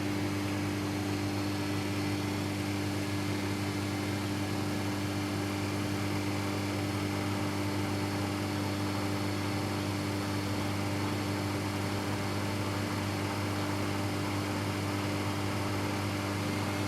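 Samsung EcoBubble front-load washing machine running with a steady hum and hiss, just before its spin starts.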